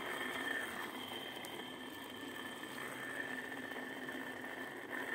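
Electric fan running with a steady whirring whine and a rough grinding noise, the sign of its worn upper ball bearing.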